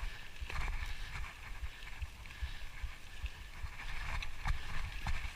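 Mountain bike riding over a rocky trail: a steady rush of wind and rolling noise with a fluctuating low rumble, and a few short knocks and rattles from the bike over the rocks.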